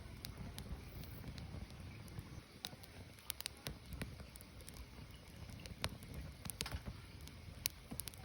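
Firewood burning, with irregular sharp pops and crackles over a low steady rumble of the flames.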